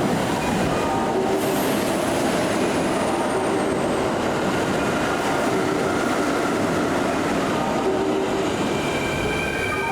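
A Kintetsu electric train running along the platform: steady loud rumble of wheels on rail, with motor whine tones coming and going over it.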